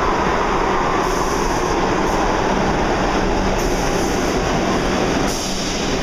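New York City subway train running, heard from inside the car as a steady loud rumble and rail noise, dipping briefly near the end.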